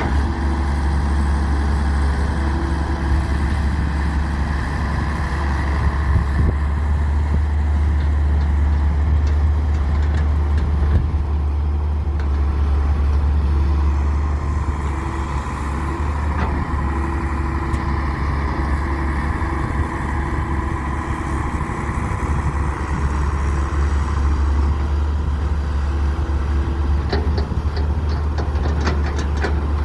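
Diesel engine of a Daewoo 170W3 wheeled excavator running steadily with a deep drone while it loads mud, its note swelling and easing with the work; a run of sharp clicks and knocks comes near the end.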